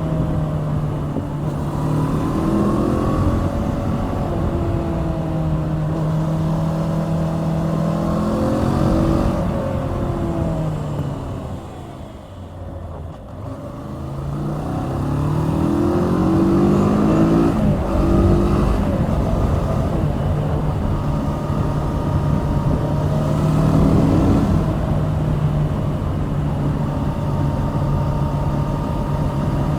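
Kawasaki Z650's liquid-cooled 649 cc parallel-twin engine under way, its pitch rising under acceleration and dropping at gear changes. About twelve seconds in it eases off to a quieter, falling note, then pulls up again and settles into a steady cruise.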